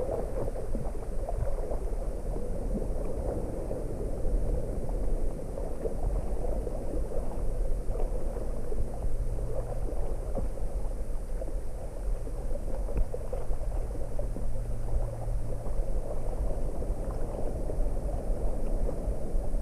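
Muffled sloshing and gurgling of sea water around a swimmer doing breaststroke. A faint low hum comes and goes in the middle.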